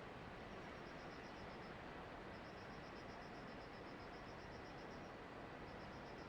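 Insects chirping in fast, even high-pitched trills that start and stop every second or two, over a steady hiss.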